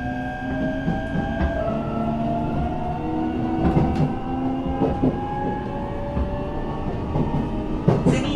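Train running, heard from inside the carriage: a drive whine that slowly rises in pitch as the train gathers speed, over a low rumble, with a few clacks of the wheels over rail joints.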